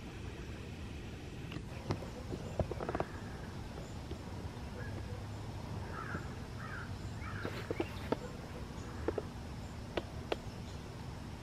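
Steady low rumble with a few short bird chirps around the middle and scattered sharp clicks.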